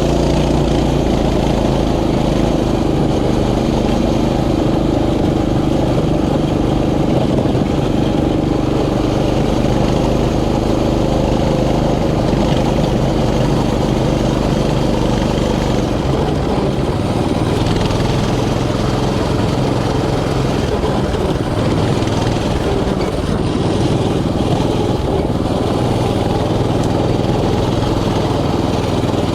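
Mini bike's small engine running while being ridden, its pitch shifting and dropping about halfway through.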